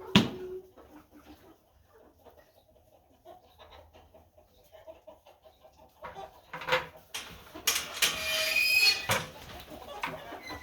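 Flock of chickens clucking softly. There is a sharp knock right at the start, and a loud rough noise lasting over a second about eight seconds in.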